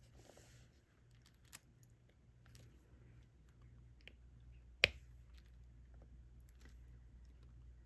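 Faint clicks and taps of a diamond painting pen picking up resin drills and pressing them onto the sticky canvas, with one sharper, louder click about five seconds in.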